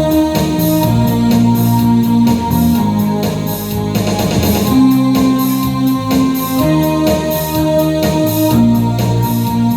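Live rock band playing: held electric keyboard chords over bass guitar and a steady drum beat.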